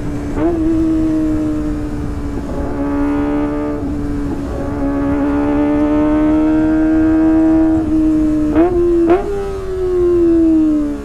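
Kawasaki ZX-25R's 250 cc inline-four running through a Sportisi Motorsport SRX aftermarket exhaust, holding a steady high engine note. Two short sharp blips come about eight and nine seconds in, and near the end the pitch falls as the revs drop.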